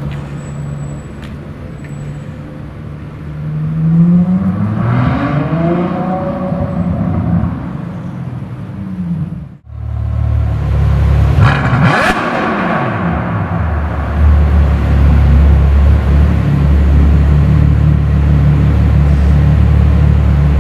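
Ferrari GTC4Lusso's V12 engine accelerating away, its revs rising about four to six seconds in. After an abrupt cut near the middle, a car-like sound rises and falls as if passing by, then gives way to a steady low drone.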